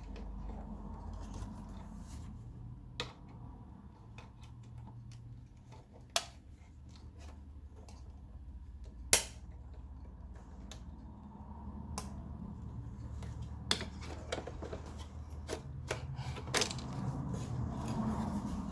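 Plastic and metal parts of a Panasonic projector being pried and handled during disassembly: irregular sharp clicks and clacks, a loud snap every few seconds, over a low rumble.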